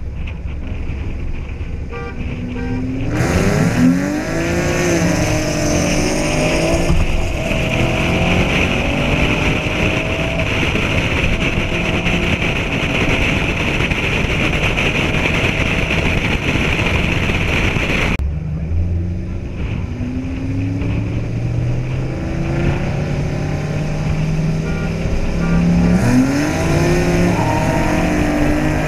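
A Camaro SS 1LE's V8 and a Procharged V6 Mustang accelerating hard side by side, engines climbing in pitch through the gears, with strong wind rush on the exterior-mounted camera. The sound cuts off suddenly about two-thirds of the way through, and a second run starts with the engines revving up again.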